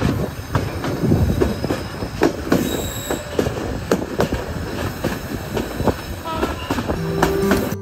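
Passenger train running on the rails, its wheels knocking irregularly over the rail joints. There is a brief high wheel squeal about two and a half seconds in. Acoustic guitar music comes in near the end.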